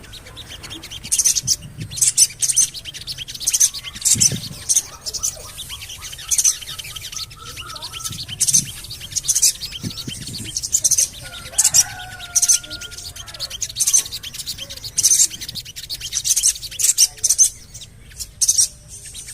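Sogon bird calling: clusters of quick, very high-pitched chirps, the 'cuit cuit cuit' call used as a lure, repeated all through with a few lower whistles among them.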